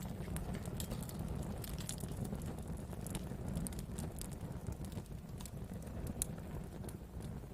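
Campfire of burning wood crackling: irregular sharp pops and snaps over a low steady rumble, with one louder pop about six seconds in.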